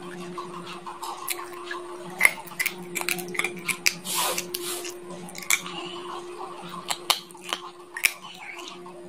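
Chicken bones being bitten and crushed between human teeth: irregular sharp cracks and crunches, with a longer grinding crunch about four seconds in.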